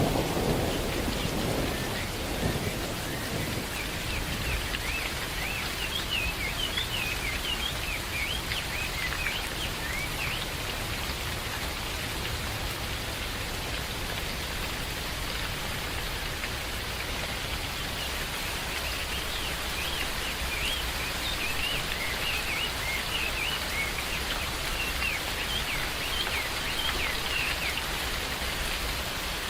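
Steady rain falling in a forest, with the tail of a thunder rumble dying away in the first couple of seconds. Birds chirp faintly through the rain in two spells, a few seconds in and again later on.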